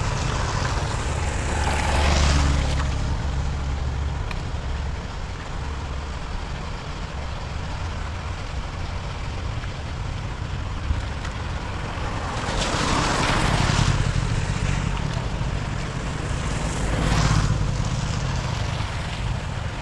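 Vehicles passing on a wet street, their tyre noise swelling and fading three times over a steady background hiss.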